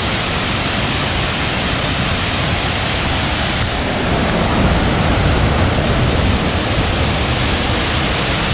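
Water of the Kataboola cascade waterfall rushing close by in a loud, steady wash, a little louder in the middle.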